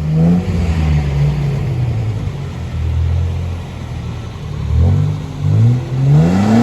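Toyota LandCruiser four-wheel drive's engine under load off-road, easing off, then revved up twice near the end with rising pitch.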